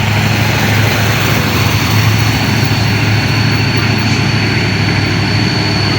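A heavy vehicle's engine idling steadily, a constant low hum with a thin steady high tone above it.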